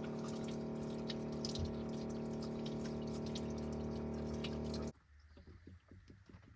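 Small electric water pump at a camper sink running with a steady hum while water flows. It cuts off abruptly about five seconds in, leaving faint ticks and drips.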